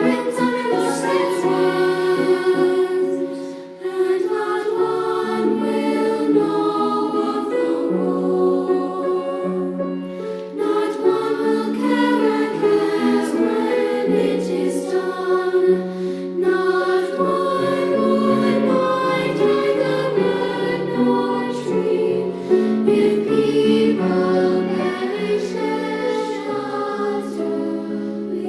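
Two-part treble choir singing a choral song, sustained notes moving continuously.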